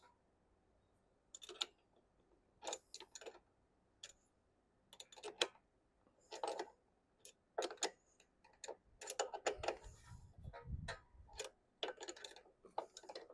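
A metal wrench clicking and ticking against a fitting in short, irregular clusters as a threaded replacement part is tightened on a John Deere E100 riding mower, with a brief low rumble about two-thirds of the way through.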